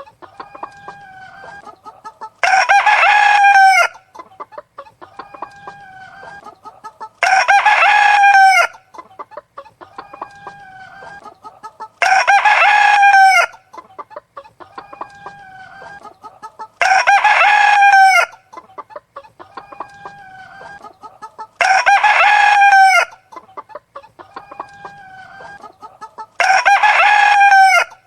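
Rooster crowing six times at evenly spaced intervals, about every five seconds, with softer hen clucking between the crows.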